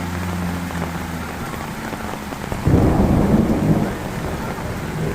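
Heavy rain falling steadily, with a sudden clap of thunder rumbling for about a second, a little under three seconds in.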